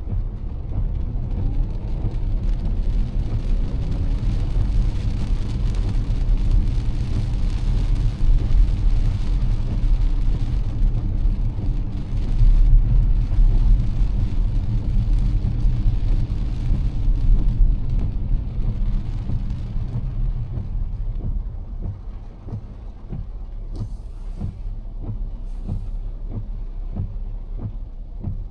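Car driving in heavy rain: a steady low road rumble with the hiss of rain and wet tyres. It grows louder toward the middle and eases off in the last third.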